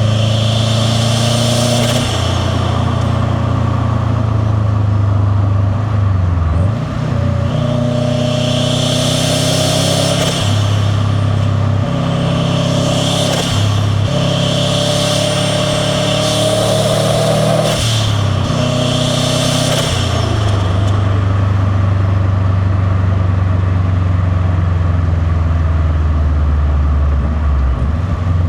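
Turbocharged Subaru WRX STi flat-four engine and intake on the road: several short bursts of rising engine note with a loud rush of turbo and intake noise as the throttle is opened, broken by brief drops in between. The last burst ends about two-thirds of the way in, and the engine then runs at a steadier, lower note.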